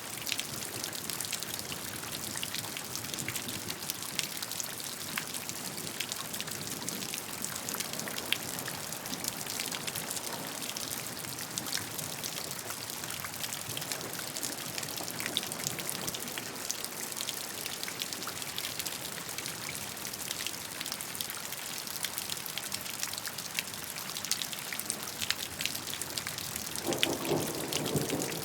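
Steady rain falling, many individual drops ticking over a constant hiss. Near the end a low rumble of thunder starts.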